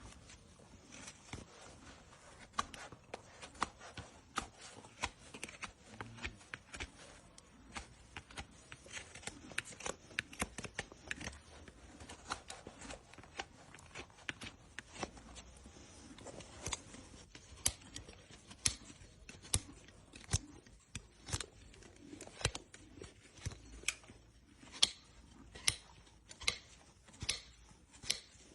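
Farrier's tools working on a horse's hoof: a run of short, sharp cutting and scraping strokes, settling into a regular beat of about one a second near the end.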